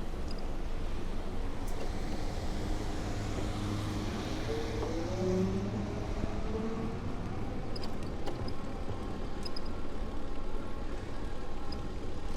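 Street traffic heard from a bicycle: a steady low rumble with a passing motor vehicle whose engine rises in pitch as it accelerates about halfway through, and a few light clicks near the end.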